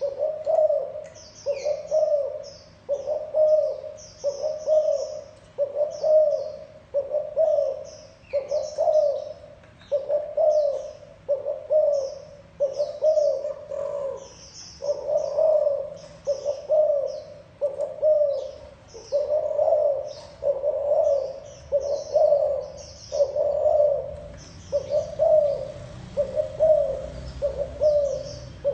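Spotted dove cooing its repeated 'gù' coo in a steady rhythm, about one coo a second. Fainter high chirps of small birds run above it.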